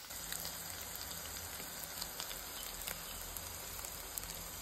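Potato bites shallow-frying in hot oil in a pan: a steady sizzle with frequent small crackles and pops.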